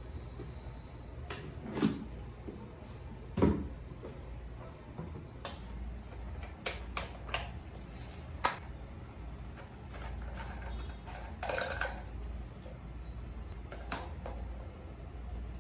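Household handling sounds in a small room: scattered knocks and clicks, with two louder thumps about two and three and a half seconds in, and a brief rustle near the end.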